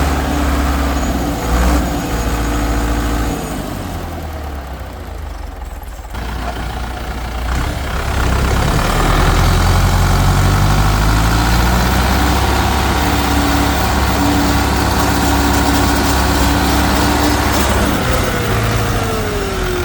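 Tractor engine running under load, its pitch rising and falling as the throttle changes. It eases off and quietens for a couple of seconds about four seconds in, then pulls hard again from about eight seconds.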